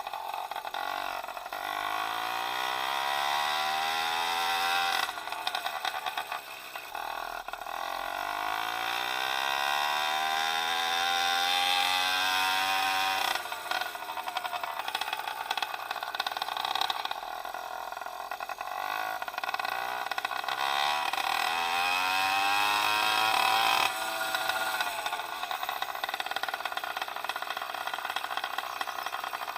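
Freshly rebuilt 66cc two-stroke bicycle engine revving. Its pitch climbs steadily three times over several seconds, dropping back after each climb.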